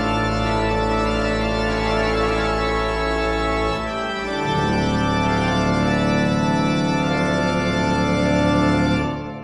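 Organ music holding sustained chords, changing chord about halfway through, then fading out near the end.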